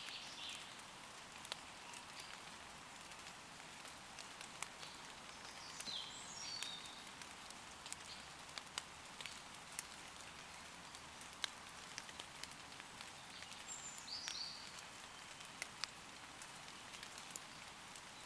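Steady gentle rain falling on forest leaves, with sharp scattered drips landing close by. A woodland bird calls with a brief cluster of high chirps twice, about six and fourteen seconds in.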